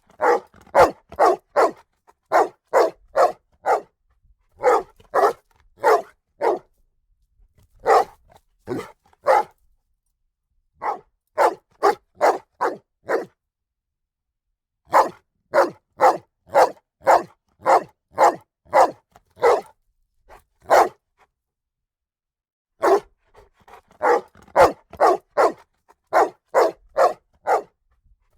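A dog barking in repeated volleys: runs of four to eight sharp barks at about two a second, with pauses of one to two seconds between runs.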